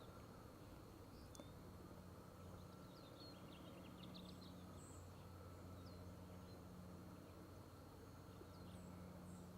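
Near silence of outdoor ambience, with scattered faint bird chirps and a faint steady low hum.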